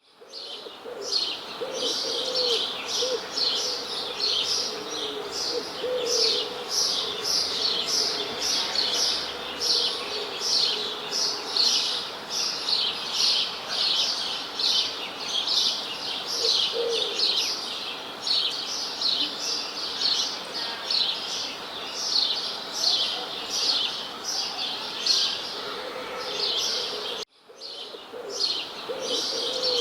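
Birds chirping in a steady, dense stream of short high chirps, several a second, with occasional lower calls beneath. The sound cuts out for a moment near the end, then resumes.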